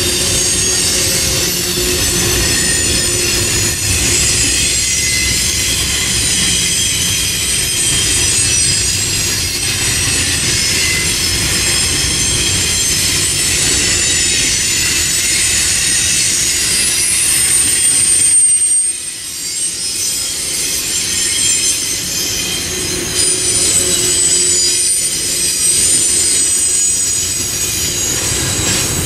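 Double-stack intermodal freight train rolling past, its steel wheels squealing in several high steady tones over the low rumble of wheels on rail. The sound drops briefly about 19 seconds in, then picks up again.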